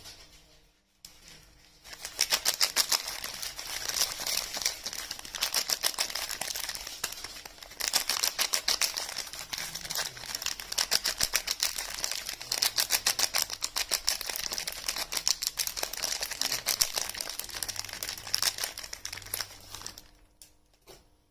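Bars of soap and their wrapping handled close to the microphone: a dense run of rapid, crisp ticking and crackling that starts about two seconds in and stops shortly before the end.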